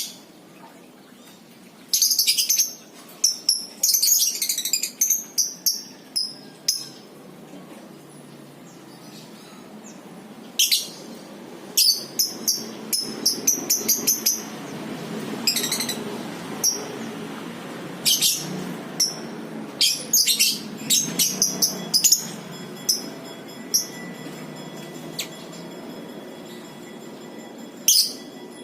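Lovebirds calling in rapid bursts of sharp, very high-pitched chirps, in several clusters with pauses between them, over a steady low background noise.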